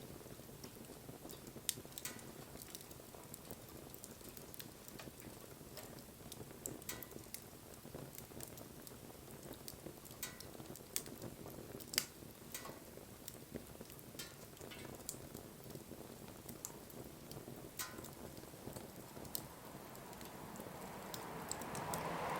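Wood fire crackling, with scattered sharp pops and snaps over a low steady rush of burning. A louder rushing noise builds over the last couple of seconds.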